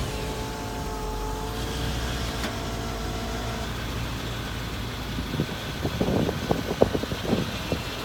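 Medium-duty bucket truck engine idling steadily just after start-up, running smooth with no odd noises. A set of pitched tones over the idle fades out after about three and a half seconds, and a few brief irregular sounds come near the end.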